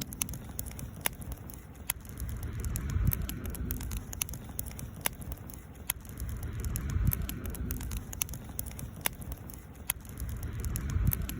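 Wood campfire crackling, with sharp irregular pops and snaps over a low rushing sound that swells about three and seven seconds in.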